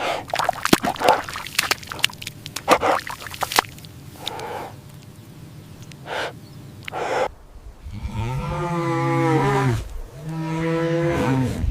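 A quick run of sharp clicks and knocks, then, from about seven and a half seconds in, a large animal gives two long, low moaning calls of about two seconds each, its pitch dropping at the end of each call.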